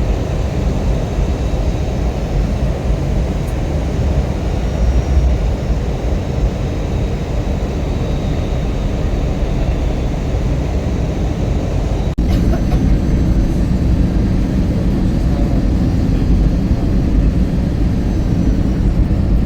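Airliner cabin noise: a loud, steady, low rumble from the jet's engines and airflow, with a brief break about twelve seconds in after which it is slightly louder.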